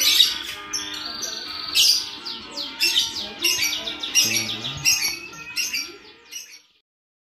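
Small birds chirping in a quick run of short, high, falling notes over faint music. Both fade out about six and a half seconds in.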